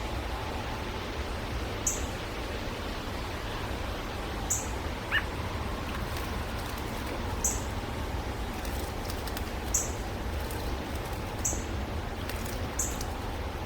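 Small birds calling: a short, very high chip repeated every two to three seconds, with one brief lower call about five seconds in, over steady background noise.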